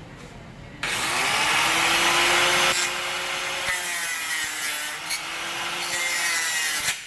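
Power tool cutting through a car's steel exhaust pipe to remove a catalytic converter: a loud rasping cut with a motor whine that starts about a second in, eases briefly twice, and cuts off just before the end.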